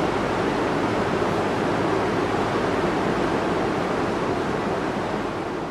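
Steady, even rush of falling water, fading out near the end.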